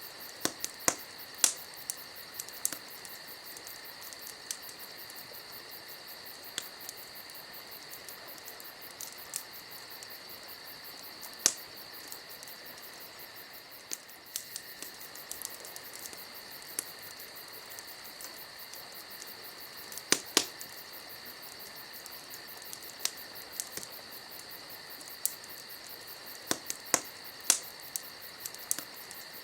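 Campfire crackling with scattered sharp pops, the loudest a few seconds apart, over a steady high chirring of insects.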